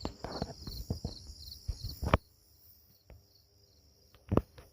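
Crickets chirping in a steady pulsing rhythm over a run of light clicks and knocks. There is a sharp knock about two seconds in and another near the end.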